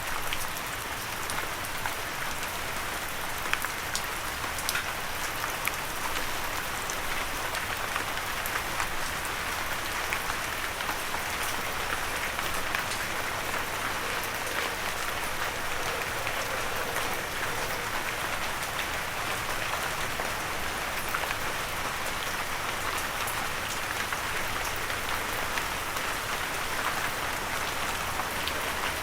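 Steady gentle rain falling, a continuous hiss with many fine raindrop ticks and an occasional louder drop.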